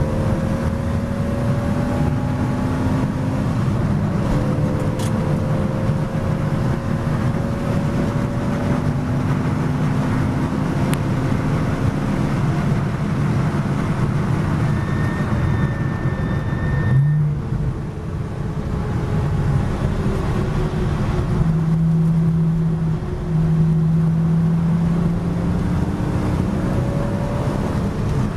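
Porsche Boxster S flat-six engine heard from inside the race car's cockpit, pulling hard with its pitch climbing slowly as speed builds. A bit over halfway through the note breaks off sharply as the car brakes for a corner, then steadier engine tones follow.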